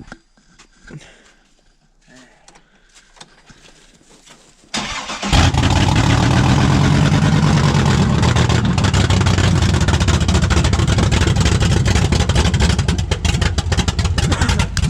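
A cammed truck engine cold-starting after sitting all winter: after a few quiet seconds the starter cranks briefly and the engine fires about five seconds in, then runs loud with a fast, choppy idle.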